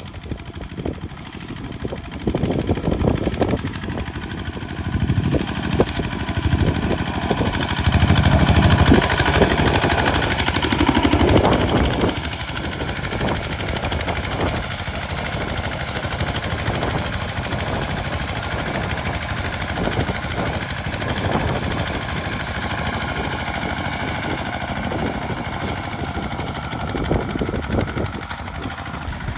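Single-cylinder Kubota RT diesel engine of a homemade plowing tractor running with a rapid, even chugging. It grows louder for a few seconds around the middle, then settles back to a steady run.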